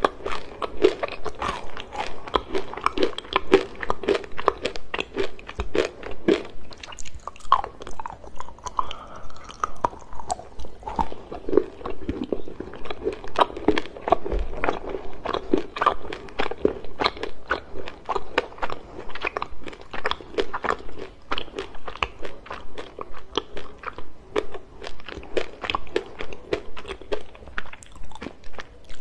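Chocolate being bitten and chewed: many sharp crunches and snaps in quick succession, with chewing between the bites.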